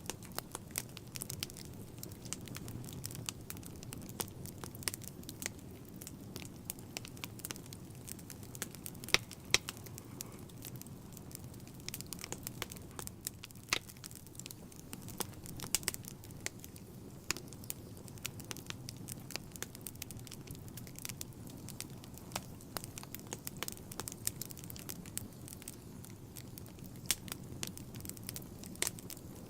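Wood fire burning in a fireplace: irregular sharp crackles and pops, a few of them louder snaps, over a low steady rumble of the flames.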